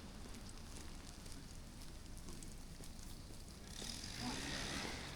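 Faint outdoor ambience with a low background rumble. About four seconds in, a rushing hiss swells for about a second and fades.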